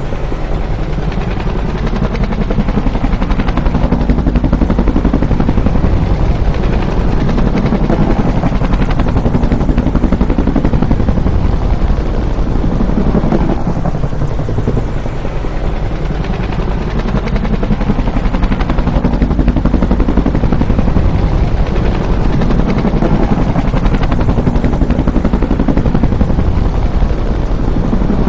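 Bell UH-1 "Huey" helicopter flying by, its two-blade rotor making a rapid, even blade slap over the turbine's steady noise. The pitch dips and rises as it passes, and the pass repeats about every 14 seconds.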